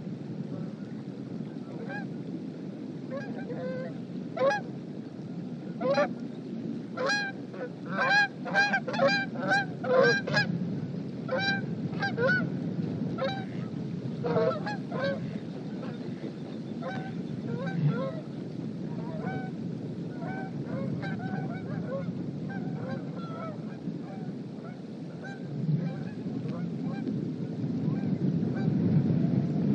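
Geese honking: a rapid run of short honks about four to fifteen seconds in, then scattered fainter honks, over a steady low rumble of strong wind on the microphone.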